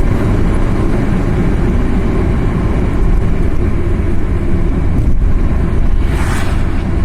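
Car driving: steady low engine and road rumble, with a brief rushing hiss about six seconds in.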